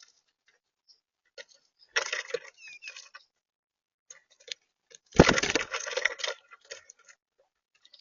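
Eastern bluebirds moving about close to the microphone: scattered sharp clicks and taps, with a louder scratchy rustle about two seconds in and a heavy thump with a rustling flurry about five seconds in.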